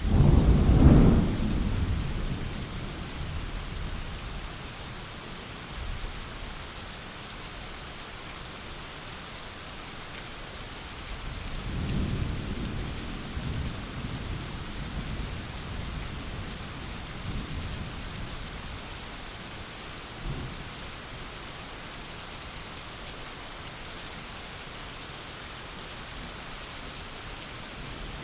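Thunderstorm: steady rain throughout, a loud thunderclap right at the start that rumbles away over a few seconds, a second, longer roll of thunder about twelve seconds in, and a short crack of thunder near twenty seconds.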